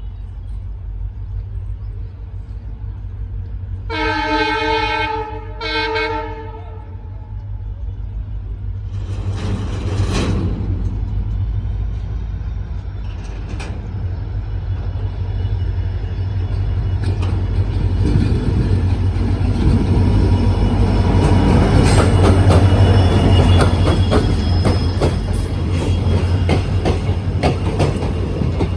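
WDG4 diesel locomotive sounding its multi-tone horn twice, a longer blast about four seconds in and a short one just after, over the steady low drone of its diesel engine. From about halfway on, the rumble builds and wheel clicks on the rail joints come thick as the train runs past.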